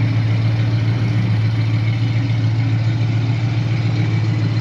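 A vehicle engine idling steadily, a constant low hum that does not change.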